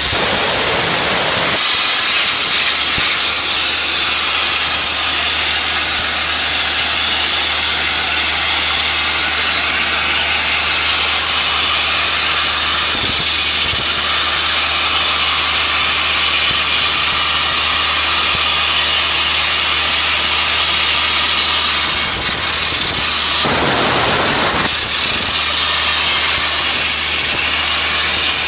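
Sandblasting nozzle blasting crushed glass media, a loud steady hiss with a thin high whistle running through it and a low hum beneath. The hiss fills out and deepens for a second or two about five seconds before the end.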